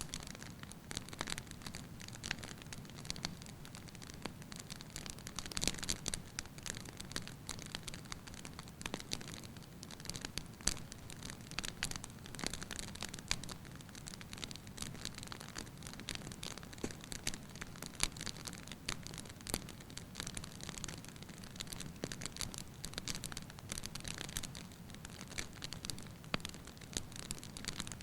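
Wood fire burning in a fireplace, crackling and popping irregularly over a low steady rush of flame.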